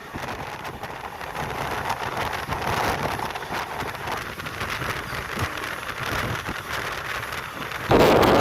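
Passenger train running, heard from on board as a steady rushing noise, which jumps suddenly much louder near the end.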